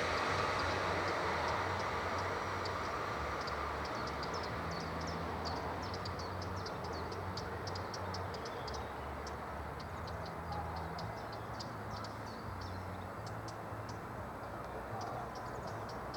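Class 296 (MaK V90) diesel shunting locomotive running with a low rumble that slowly fades as it moves off. From a few seconds in, many quick light ticks come irregularly over it.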